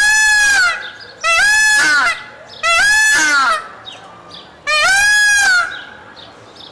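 Peacock (Indian peafowl) calling: four loud, ringing calls about a second apart, each rising then falling in pitch.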